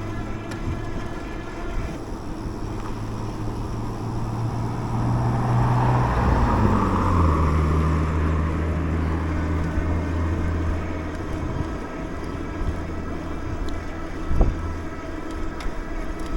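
Road and wind noise from a moving bike, with a motor vehicle passing close by in the middle, swelling and then fading. A single sharp knock near the end.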